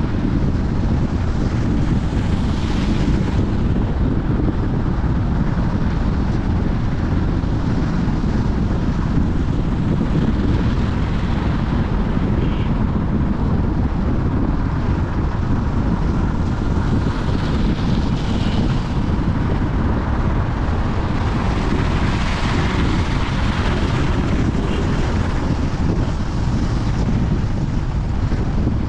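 Steady low rumble of a moving vehicle with wind noise on the microphone, with a few faint higher hisses coming and going.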